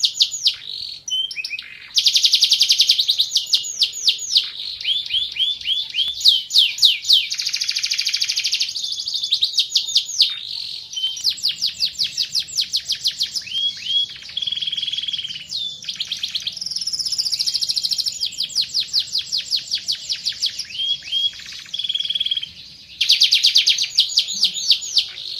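Domestic canary singing a long, loud song of fast trills and rolls, each phrase a rapid run of repeated notes, switching to a new phrase every second or so.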